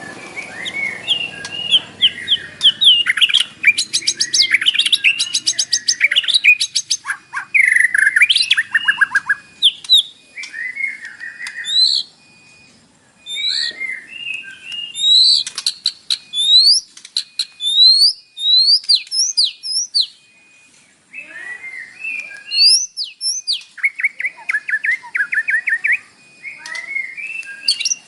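White-rumped shama (murai batu) singing a varied, loud song of rapid trills, rising whistles and chattering notes packed with mimicked phrases (isian), with short pauses about 12 and 20 seconds in.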